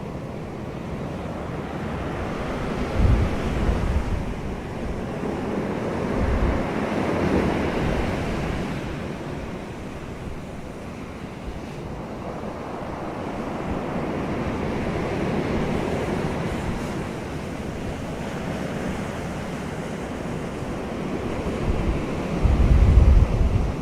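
Wind blowing with a steady rushing that swells and fades, and gusts buffeting the microphone about three seconds in and again near the end.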